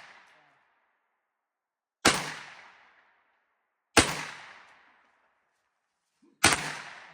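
Three gunshots from a gun fired about two seconds apart, each a sharp crack trailing off over about a second.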